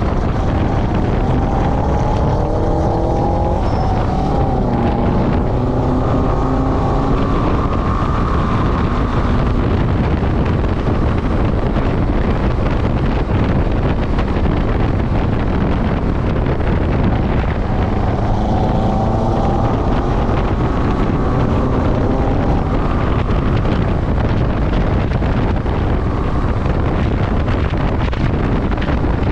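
Motorcycle riding at speed with heavy wind noise on the microphone. The engine note climbs in pitch in a few steps twice, near the start and again about two-thirds of the way through, as the bike accelerates.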